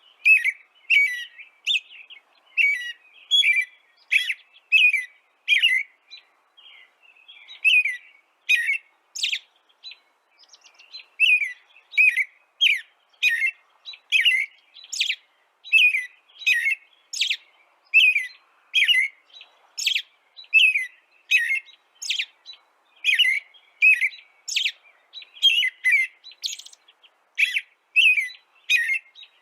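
A bird chirping over and over in short, high chirps, about one and a half a second, thinning out for a few seconds in the first half before picking up again.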